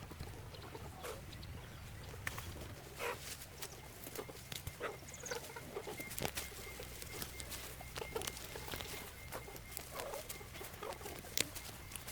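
Irregular light taps and clicks, with short faint animal calls here and there and a faint steady high tone through the middle.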